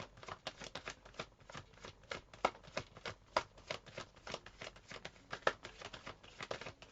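Tarot cards being shuffled by hand: a steady run of quick card clicks, several a second.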